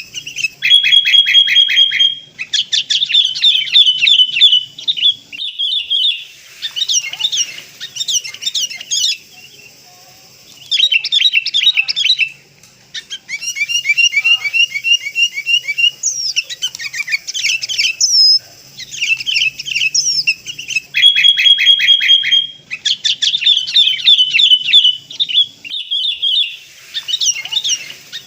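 Sooty-headed bulbul song: bursts of rapid chirping notes and short whistles, repeated phrase after phrase with brief pauses.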